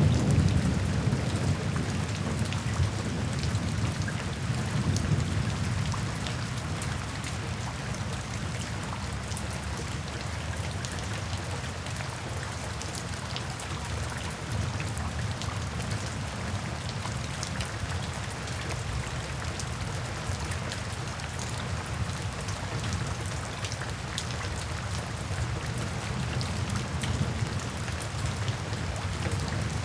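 Steady rain falling, with many small sharp drop ticks. A low rumble of thunder, loudest at the start, dies down over the first several seconds.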